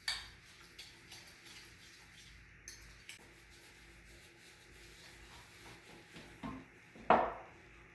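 Quiet kitchen handling of dishes and utensils: a sharp clink at the start, a few small ticks and faint rubbing, then a louder knock of a dish or utensil set down about seven seconds in.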